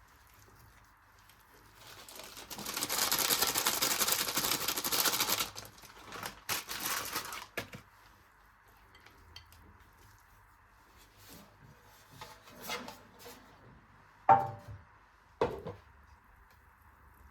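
Kitchen handling sounds: a few seconds of dense, rapid scraping about two seconds in, some scattered clicks, then two sharp clinks of dishes near the end, the first briefly ringing.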